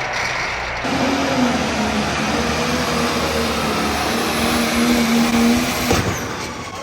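A pulling tractor's turbocharged diesel engine going to full throttle about a second in, a loud steady scream with a held whine. About six seconds in there is a sharp crack, and the engine sound then starts to die away.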